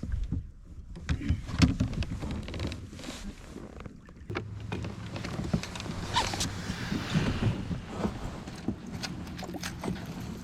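Pedal-drive fishing kayak underway while trolling: water lapping and splashing at the hull, with scattered knocks and clicks. A steady low hum joins about four seconds in.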